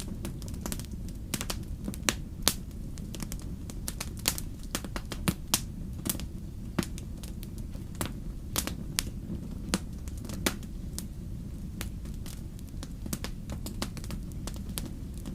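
Wood campfire crackling: irregular sharp snaps and pops, several a second, with a few louder pops, over a steady low rumble.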